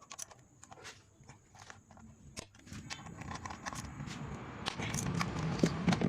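Scattered clicks and knocks of a Hyundai Verna's ignition coils being unclipped and pulled out of the engine by hand, with a low steady hum from about halfway.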